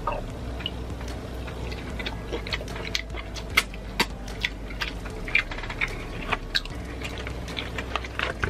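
Close-miked wet chewing of lobster meat with lip smacks and sharp mouth clicks. The clicks are irregular and come thicker and louder from about two seconds in.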